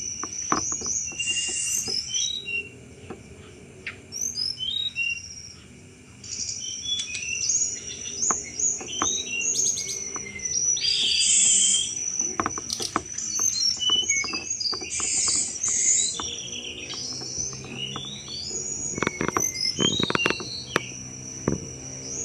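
A tledekan gunung songbird singing rapid, varied high chirps mixed with sharp clicking 'cetrekan' notes. A steady high insect-like trill runs underneath.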